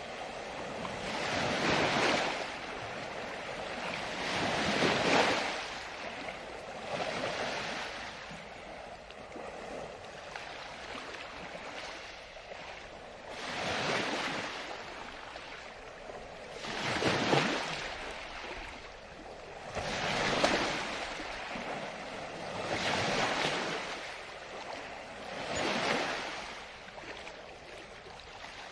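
Ocean waves breaking and washing on the shore, each surge swelling and fading away, about every three seconds with a lull in the middle.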